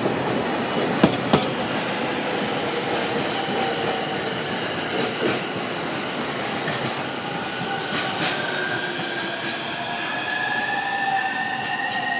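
Tank wagons of a freight train rolling past as it pulls away, wheels clacking over rail joints in the first couple of seconds and then running on steadily. In the second half a whine climbs slowly in pitch.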